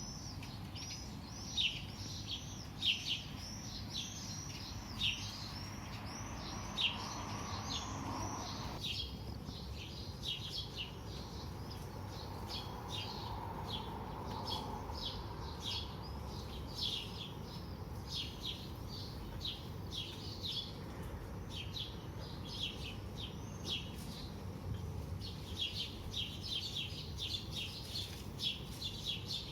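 Small songbirds chirping steadily, many short, quick, high chirps overlapping, over a low background hum.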